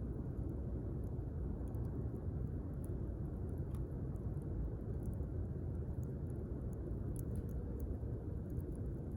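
Wood campfire burning with a steady low rumble and scattered faint crackles and pops.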